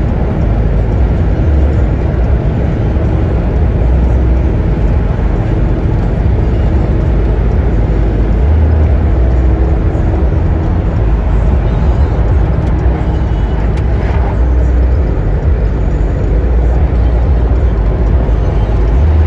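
A moving vehicle's steady low rumble with road noise, running evenly.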